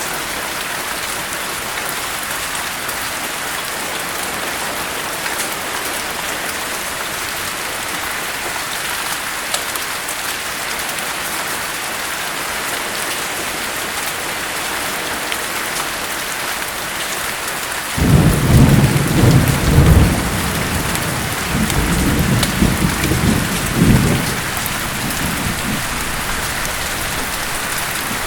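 Steady heavy rain falling, with a clap of thunder breaking in suddenly about two-thirds of the way through and rolling on in several low rumbling swells for some eight seconds before the rain alone carries on.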